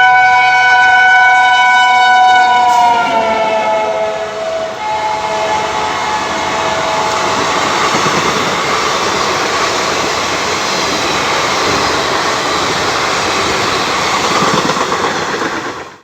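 Locomotive horn held loud for about three seconds, its pitch dropping slightly as the train passes, then fading out. The steady rush and wheel noise of the train going past at speed follows and cuts off abruptly at the end.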